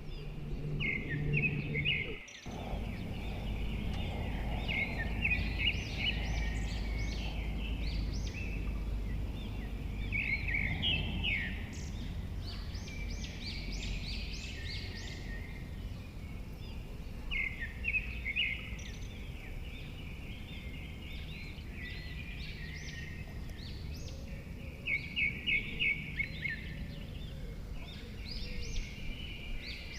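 Songbirds singing and chirping in short phrases, with a quick run of repeated notes about 25 seconds in, over a steady low outdoor rumble.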